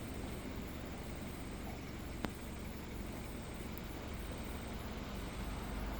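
Quiet outdoor ambience: a steady hiss with a faint, high insect chirp repeating about once a second, and one sharp click a little over two seconds in.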